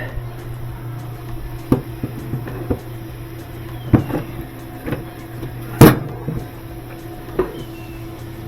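Scattered short knocks and clunks of parts and tools being handled, about six in all, the loudest about six seconds in, over a steady low hum.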